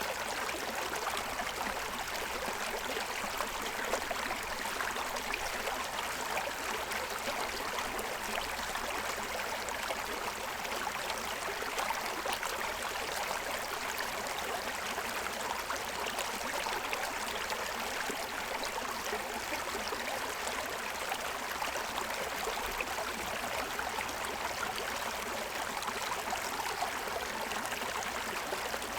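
Small stream running steadily over a stony bed, a continuous rushing and babbling of water.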